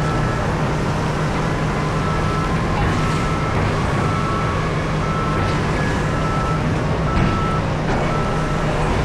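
Large diesel engines of mining machinery running at a steady deep hum, with a vehicle reversing alarm beeping about once a second. A brief knock stands out about seven seconds in.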